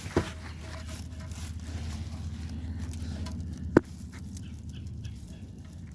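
Faint handling noises from threading an oil drain plug in by hand, with one sharp click a little under four seconds in, over a low steady background hum.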